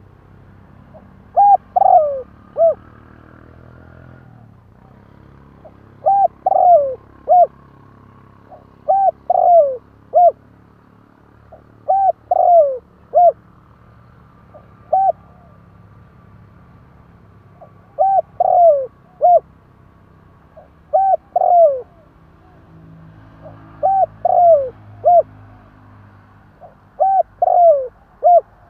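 Spotted dove cooing: a phrase of three or four short coos, the middle one longer with a falling tail, repeated about every three seconds. It is the kind of cooing used as a lure call to provoke wild doves.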